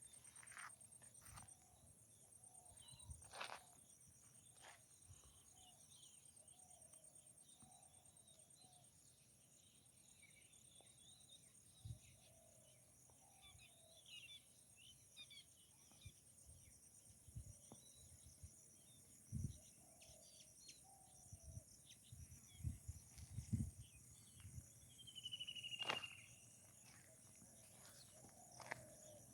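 Faint outdoor nature ambience: a steady high-pitched insect trill, with scattered bird chirps and one clear falling whistled call near the end. A few low thumps cut in during the second half.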